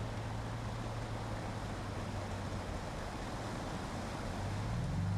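A 4x4's engine running steadily, its note rising slightly near the end, over a steady rushing noise.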